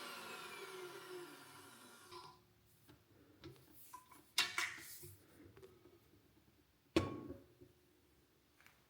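KitchenAid stand mixer motor winding down, its pitch falling as it slows to a stop over the first two seconds. Then a few sharp knocks, the loudest about four and a half and seven seconds in.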